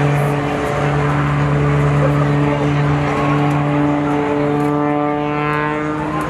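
A loud, steady engine drone. Near the end a second engine tone glides in pitch, as when an engine passes by.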